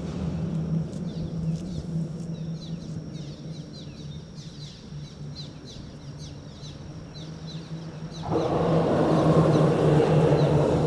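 Outdoor ambience: birds chirping in quick, high, falling notes over a steady low hum. About eight seconds in, a louder, even rushing noise comes in and holds to the end.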